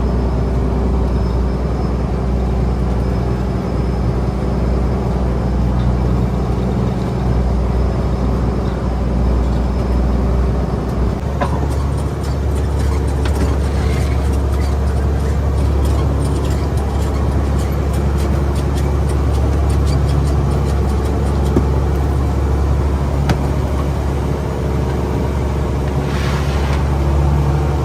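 Fishing boat's engine running steadily, a loud low hum whose pitch shifts once about eleven seconds in.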